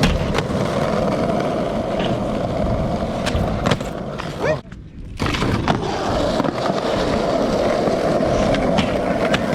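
Skateboard wheels rolling steadily, with a few sharp clicks and knocks from the board. The rolling noise briefly cuts out about halfway through, then resumes.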